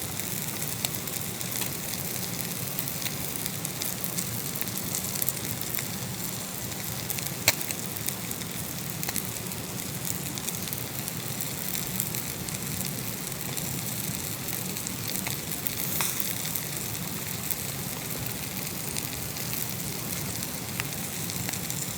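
Food sizzling over a wood campfire: a steady hiss with scattered sharp crackles and pops from the burning wood, the loudest pop about seven and a half seconds in.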